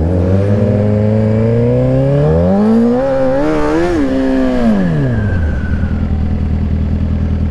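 Sportbike engine revving up in pitch for about three seconds as the motorcycle accelerates, then winding down as it slows, settling into a steady idle about five and a half seconds in.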